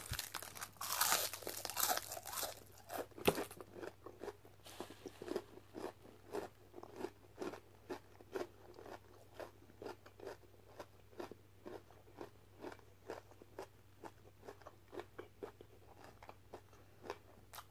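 A person biting into crunchy fried food and chewing it. There are crisp crunches over the first few seconds, then steady, even chewing about twice a second.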